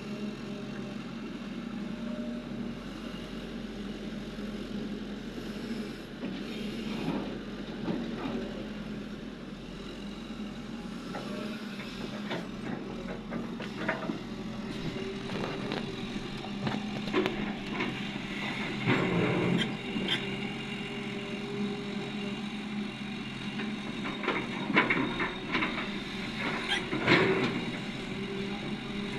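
Cat 330D excavator's diesel engine running steadily while it loads rock into a dump truck, with scattered knocks and clatters, the loudest about two-thirds through and again near the end.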